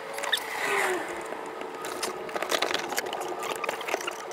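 A brief falling groan of effort, then scattered light clicks and scrapes of hands working hose fittings on the car's fuel system, over a faint steady hum.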